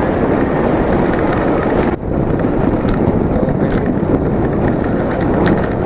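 Wind buffeting the microphone of a camera on a moving bicycle, a loud steady rush that dips briefly about two seconds in.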